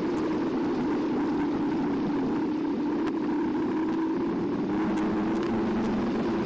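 Carbo X eBike's electric motor whining steadily while riding, over tyre and wind noise, with a few light clicks.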